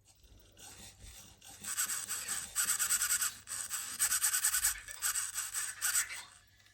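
Small servo motors of an Emo robot's feet buzzing in rapid pulses for several seconds, starting about a second and a half in, in a few stop-start runs.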